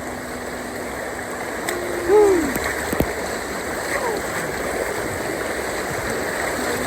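River water rushing and gurgling steadily through rapids. A short falling voice call comes about two seconds in, and a sharp click a second later.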